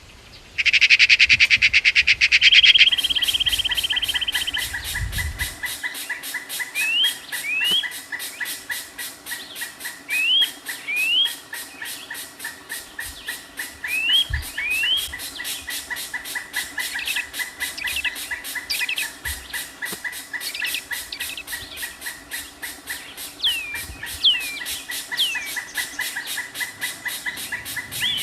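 Birds calling over a fast, steady pulsing chorus with a constant high tone. Short rising whistles come in pairs every few seconds, and near the end a few falling ones. A louder dense trill fills the first couple of seconds.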